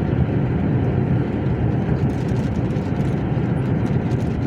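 Truck engine and tyre noise heard from inside the cab while driving at a steady speed: an even low drone with no change.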